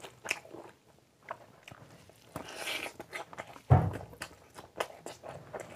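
A person chewing and eating with the hand, close to the microphone: wet mouth clicks and smacks, a breathy hiss partway through, and one dull low thump a little past the middle.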